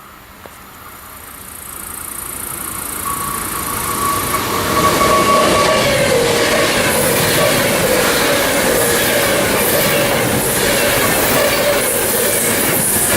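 Passenger or freight train approaching and passing close by. The sound swells over the first four seconds or so and then stays loud: a rush of wheels on rail with a steady high whine over it.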